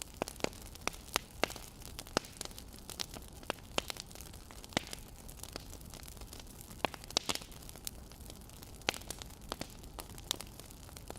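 Crackling wood fire: irregular sharp pops and snaps, sometimes in quick clusters, over a soft steady hiss.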